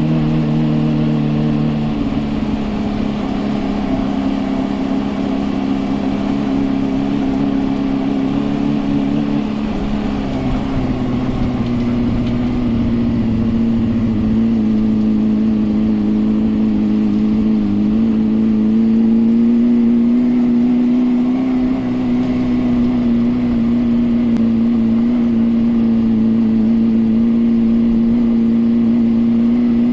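Suzuki GSR 400's inline-four engine running through a Yoshimura exhaust, held at a steady cruise with small throttle changes. Its pitch steps down about ten seconds in and slowly creeps back up toward the end.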